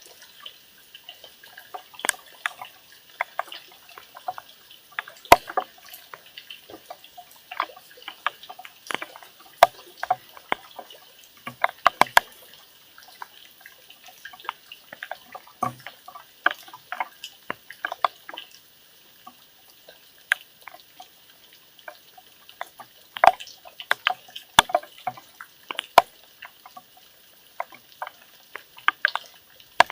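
Raindrops falling and dripping in irregular sharp taps on a hard surface, sometimes several in quick succession, over a faint steady hiss.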